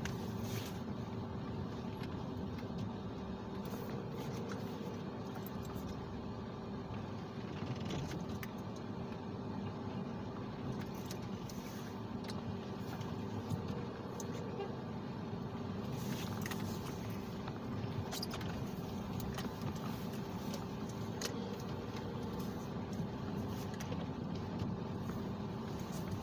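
A car running heard from inside the cabin while driving slowly: steady engine and road noise with a constant hum, and scattered light clicks and rattles.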